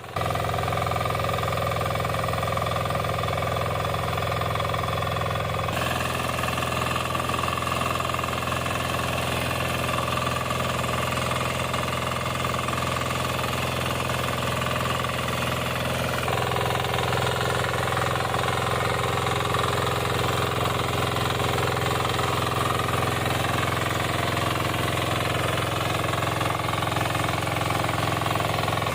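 The 6-horsepower diesel engine of a tillage machine running steadily as it works the soil. Its tone shifts slightly about 6 seconds in and again about 16 seconds in.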